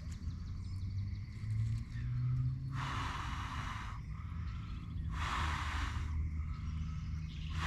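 A person blowing hard on a struggling campfire to get it to catch: three long puffs of breath about two seconds apart, over a steady low rumble.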